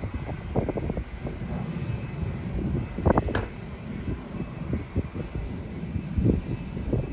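Airliner engines passing, a steady low rumble with uneven low thumps, and a sharp click about three seconds in.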